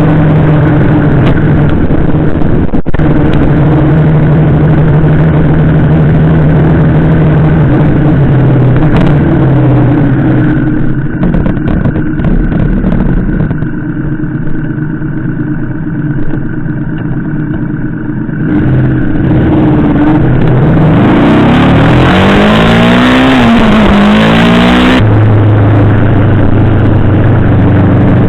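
Yamaha VMAX 1700's V4 engine running under way, heard from a camera mounted on the bike. It holds a steady note, drops quieter in the middle, then revs up and down with a rushing wind noise about twenty seconds in, before settling back to a steady note.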